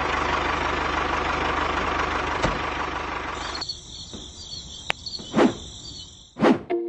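An engine running steadily with an even low pulse, cutting off suddenly about three and a half seconds in. It is followed by a high, wavering chirping and two short whooshes near the end.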